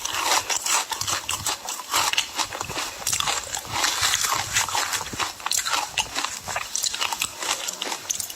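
A person chewing and crunching ice close to the microphone: a dense, irregular run of sharp cracks and crunches.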